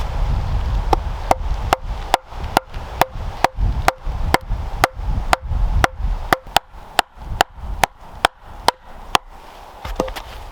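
A tool striking wood in a fast, even rhythm, about twenty sharp blows at two to three a second, each with a short ring, as wood is chopped or hammered. Wind rumbles on the microphone underneath.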